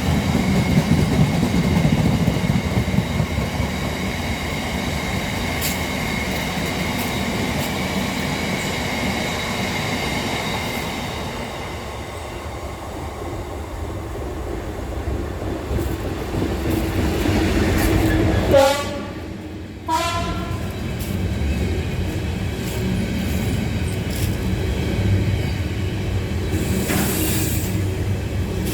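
A train running past on the line, sounding its horn about two-thirds of the way through: two short notes about a second apart.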